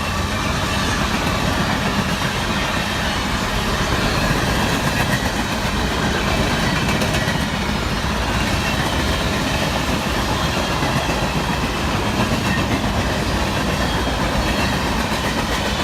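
Freight train rolling past, its cars making a steady wheel-on-rail noise with no let-up.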